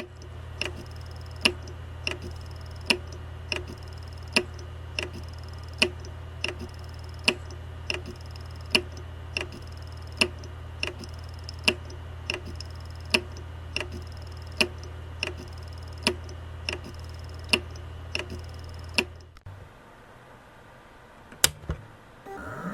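Seagate ST31000524AS 1TB 7200 rpm hard disk spinning with a steady low hum while its heads click sharply and regularly, about one and a half clicks a second: the repetitive clicking of a failing drive that has lost all its data. The hum and clicking stop suddenly about 19 seconds in, and a couple of louder single clicks follow near the end.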